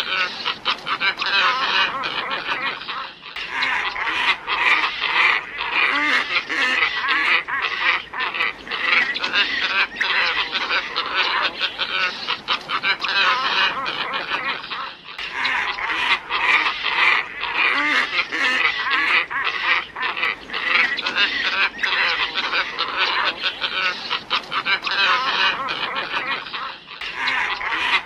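A flock of glossy ibises calling, many overlapping calls at once, played as a looped lure recording for attracting ibises. Brief dips about every twelve seconds mark where the loop restarts.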